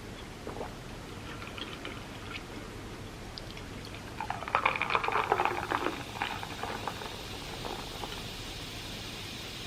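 Close-miked eating of avocado toast on sourdough: soft chewing and mouth sounds, with a louder burst of crackly chewing about four to six seconds in.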